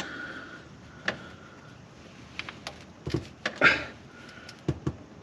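Irregular metallic clicks and knocks of a socket wrench being fitted and worked on a tight bolt under a car.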